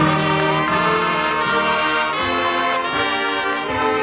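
High school marching band playing, its brass section carrying sustained chords with a few notes bending up into pitch.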